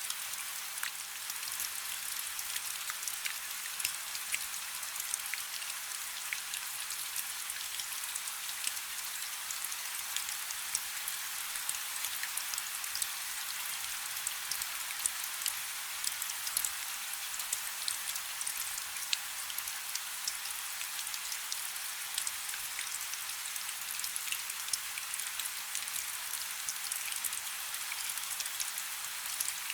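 Steady rain falling on a river's surface: an even, bright hiss with many individual drops ticking through it, and little low rumble.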